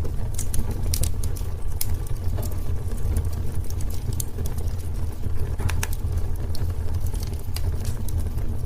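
Wood fire in a fireplace crackling: sharp pops and snaps at irregular intervals over a steady low rumble.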